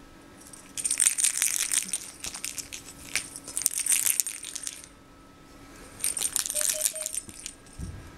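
Small metallic jingling and rattling, shaken in two bouts: a long one of about four seconds, then a shorter one of about a second and a half.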